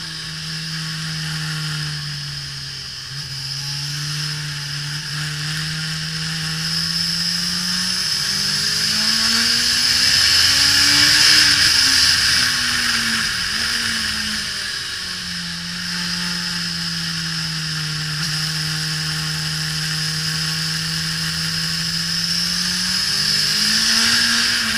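Suzuki GSX-R1000 K5 inline-four engine under way on track, heard onboard. It holds a steady note, revs up about halfway through and drops back, then holds steady again and rises near the end. A steady wind rush over the camera, loudest at the highest revs.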